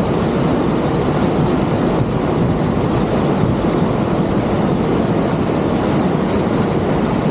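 Steady rush of falling water from a waterfall, loud and unbroken.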